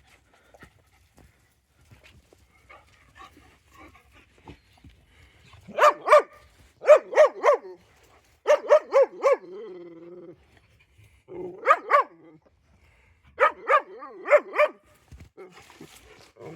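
A dog barking in quick runs of two to five barks, with a short lower wavering sound between runs about ten seconds in.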